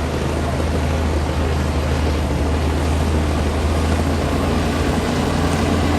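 Komatsu D60P bulldozer's diesel engine running steadily under load.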